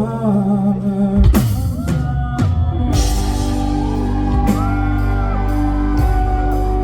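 Live band with a male singer: the vocal melody continues over sustained chords, drums come in with a hit about a second in, and from about three seconds the full band plays with a steady cymbal beat.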